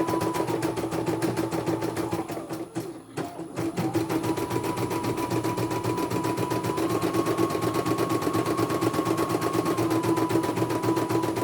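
Computerized embroidery machine stitching at speed: a rapid, even needle clatter over a motor whine that shifts slightly in pitch. About three seconds in, it slows almost to a stop for a moment, then picks up again.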